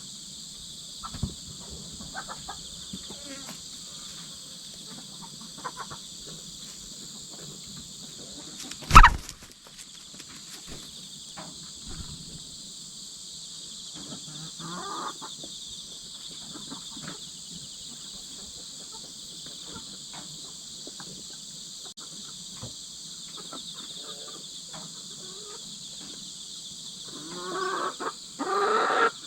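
Hens clucking and squawking over a steady insect chorus, with one loud sharp knock about nine seconds in and a loud burst of squawking near the end, as the hens chase and fight over pecking order.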